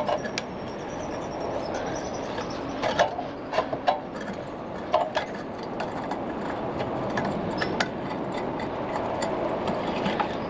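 Scattered short clicks and knocks of hand tools and engine parts being handled during work on a small lawn-mower engine, over a steady background hiss.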